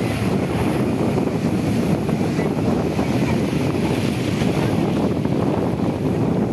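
Mediterranean sea waves washing on the shore, a steady rushing with heavy wind buffeting on the microphone.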